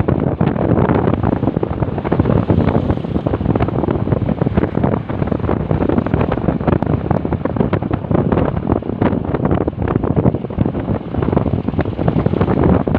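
Heavy wind buffeting the microphone on a moving motorcycle, a steady rushing roar that covers the engine and road noise.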